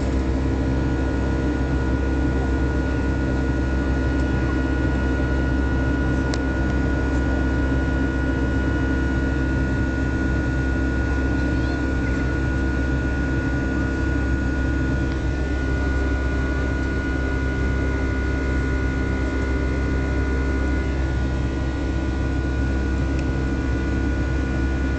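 Boeing 757 cabin drone in the climb: the jet engines and airflow make a steady low rumble with several constant humming tones, unchanging throughout.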